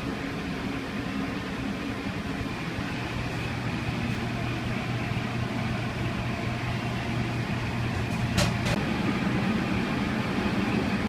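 Steady machine hum of food truck kitchen equipment running, with two sharp clicks close together about two-thirds of the way through.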